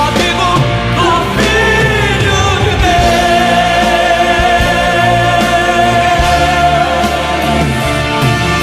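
Gospel song: a singer over a full band, holding one long note from about three seconds in until near the end.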